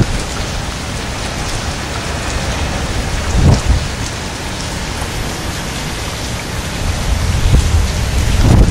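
Heavy thunderstorm rain falling steadily, with low rumbles of thunder swelling about three and a half seconds in and again near the end.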